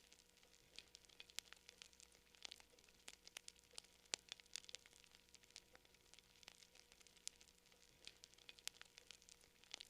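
Quiet campfire crackling: burning wood giving irregular sharp snaps and pops, several each second, over a faint hiss.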